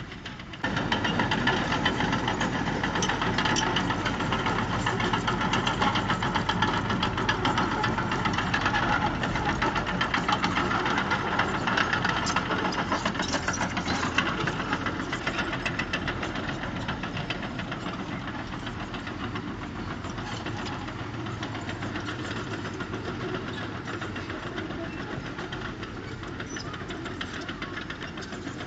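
Heavy diesel engine of earthmoving machinery running hard with a fast, even knocking beat. It comes in suddenly about a second in and eases off a little in the second half.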